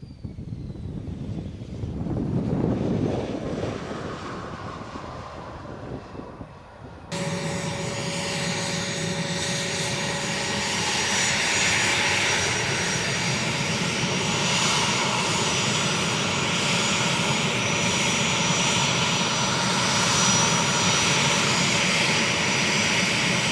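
Jet aircraft engines with a high whine. For the first seven seconds a high tone falls in pitch. Then the sound changes abruptly to a louder, steady engine noise with a constant whine.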